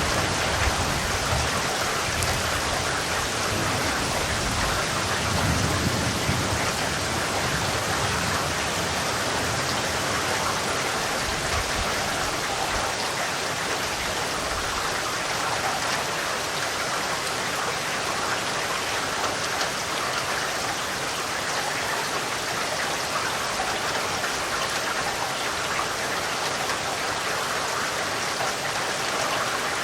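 Steady rain falling, an even hiss of drops on a surface. A low rumble of distant thunder dies away in the first several seconds.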